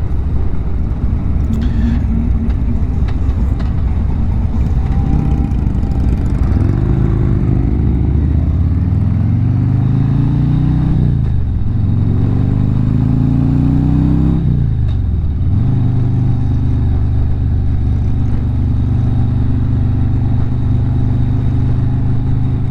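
Harley-Davidson V-twin motorcycle engine pulling away through the gears. Its pitch rises, drops at an upshift a little before halfway, rises again and drops at a second upshift, then settles to a steady cruise.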